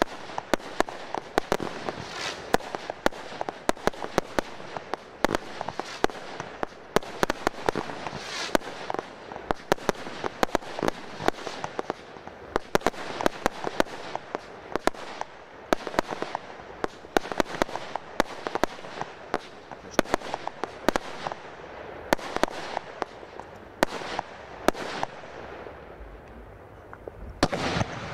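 Firework batteries firing a display: a dense, irregular run of shots and bursts, with popping and crackling between the bangs. A denser, louder volley sets in near the end.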